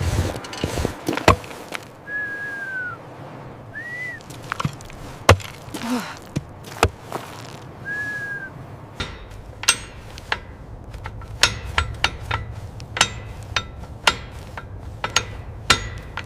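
A run of sharp knocks and cracks, coming thicker in the second half over a low rumble, with three short arching whistle-like tones in the first half.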